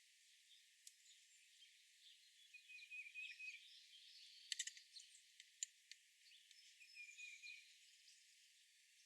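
Faint wild bird chirps and short trills, twice, with a few sharp clicks in the middle, over a faint outdoor hiss.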